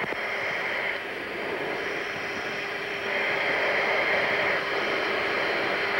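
Steady cabin noise of a Boeing E-3D Sentry climbing out just after takeoff: an even rush of engine and airflow noise with a faint steady hum, growing a little louder about halfway through.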